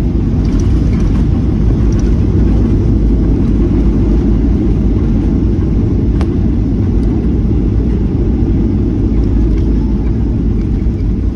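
Steady, loud low rumble of a jet airliner heard from inside the passenger cabin, as the engines and airframe run with no change in pitch. There is a single faint click about six seconds in.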